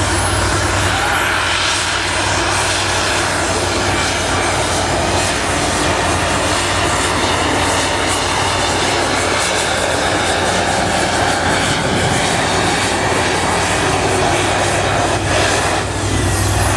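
Modified pulling tractor's engine running hard under load: a loud, steady engine noise with a high whine that climbs over the first couple of seconds and drops away near the end.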